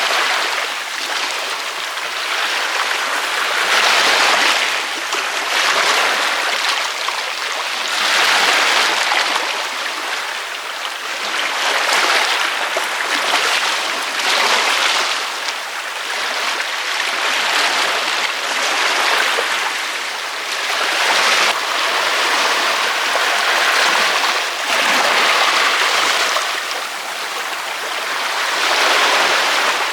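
Ocean waves breaking on a beach: a continuous wash of surf that swells and eases every few seconds.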